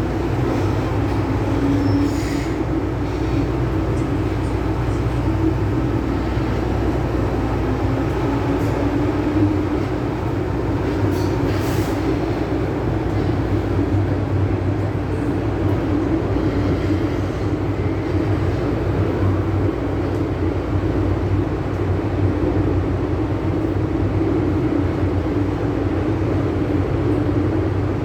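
An MTR M-Train electric multiple unit running between stations: a steady rumble of wheels on rail and running gear, with a few faint clicks.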